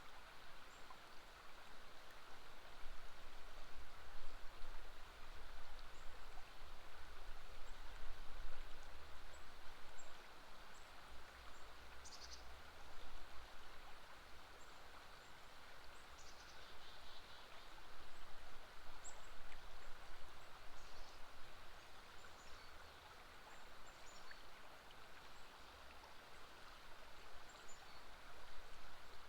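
River water flowing steadily, with scattered short, high bird chirps throughout and a low rumble that rises and falls.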